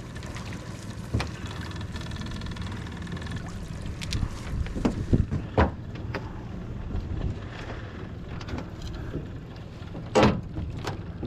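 Boat motor running steadily at low speed, with several short knocks, the loudest near the end.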